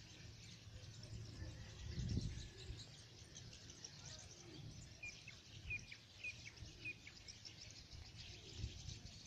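Faint outdoor ambience with birds chirping: a run of about five short, high chirps in the middle, over a low rumble that swells about two seconds in.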